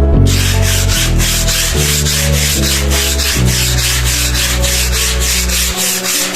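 Abrasive sanding of a wall surface in quick back-and-forth strokes, about five a second, starting a moment in.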